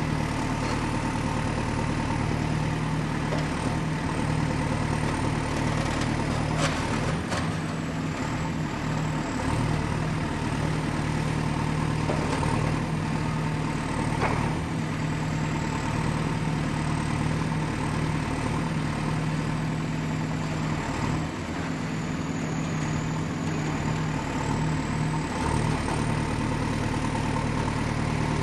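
Excavator's diesel engine running steadily, with a faint high whine that wavers in pitch. A few knocks come about 7 seconds in and again around 12 and 14 seconds.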